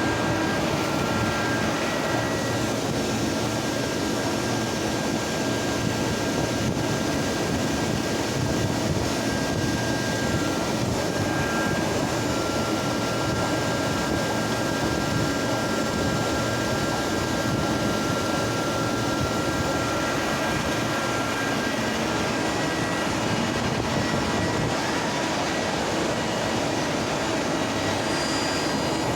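CNC gear grinding machine running steadily: a constant mechanical hum and hiss with faint, steady high-pitched whines over it.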